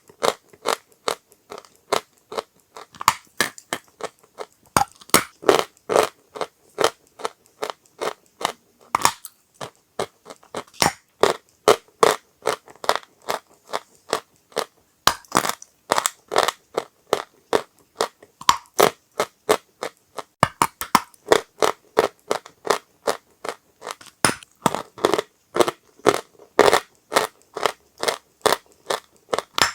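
Dry chalk being crunched: a fast, steady run of sharp, crackly crunches, several a second, with brief gaps.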